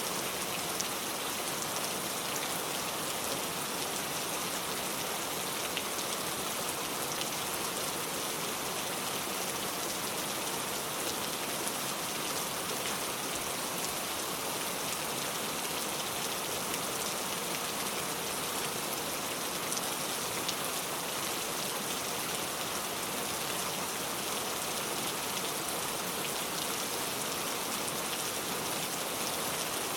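Steady rain falling on a car, an even hiss of rain with many small drop taps.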